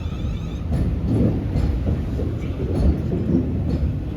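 Electric multiple-unit train moving slowly through the station: a low, steady rumble with a few faint clicks of wheels over rail joints.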